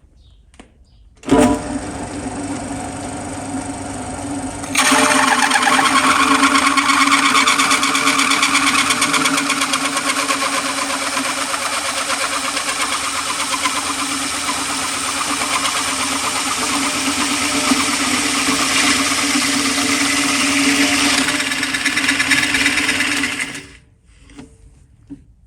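A machine-driven hole cutter cuts steel plate. The motor starts about a second in and runs with a steady hum. A few seconds later the cutter bites into the plate with a loud, steady grinding screech that lasts about 19 seconds and then stops. The pilot drill bit is thought to have dropped out, so the cut is being made without it.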